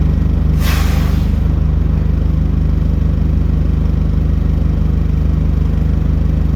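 Bus engine running with a steady low drone, and a short hiss of air a little over half a second in.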